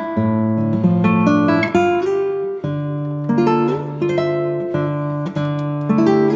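Background music played on acoustic guitar, plucked chords changing every half second or so.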